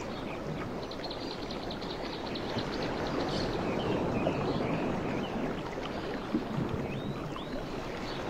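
Birds chirping high over a steady rushing background noise, with a quick trill of repeated notes about a second in and scattered short chirps later.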